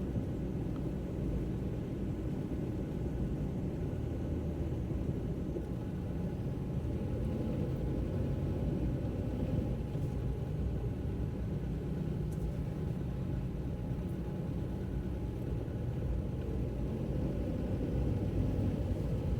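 Steady low rumble of a car driving, engine and road noise heard from inside the moving car.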